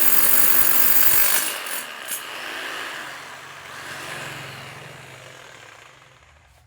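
DeWalt rotary hammer running at full speed, then let off about a second and a half in, with a short click, and its motor winding down and fading away over several seconds.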